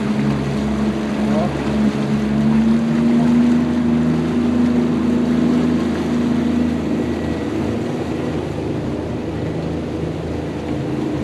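Motorboat engine running steadily under way, heard from on board, over a steady rushing noise; its hum grows a little stronger about two seconds in and eases off again after about seven seconds.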